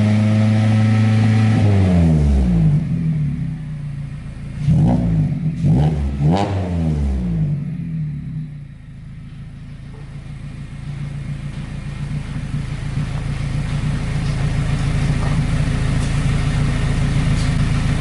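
A Mazda MX-5 Miata's four-cylinder engine running through a newly fitted Invidia aftermarket exhaust. It is held at raised revs, drops back, is blipped twice in quick succession, then settles into a steady idle.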